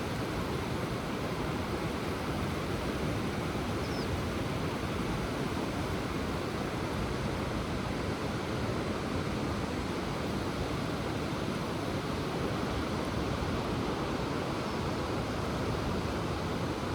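Ocean surf washing steadily, an even rushing with no single wave breaking out above the rest.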